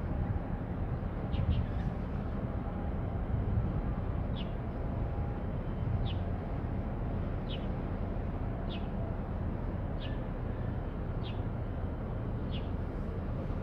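A small bird giving a short, high chirp over and over, about once every second and a half, over a steady low rumble.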